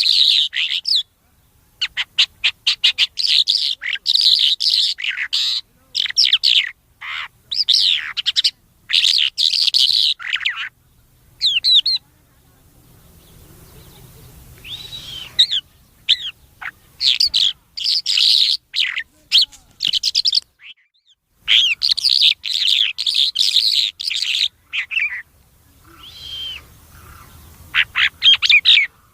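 A songbird known as thoor ghoora singing in fast, high-pitched runs of chirps and warbled whistles, with a couple of short pauses.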